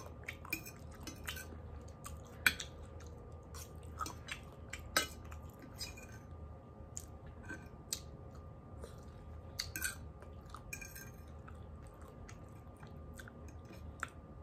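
A person chewing food close to the microphone: irregular, mouth-noisy clicks and smacks, with a few sharper ones about two and a half and five seconds in, over a faint steady hum.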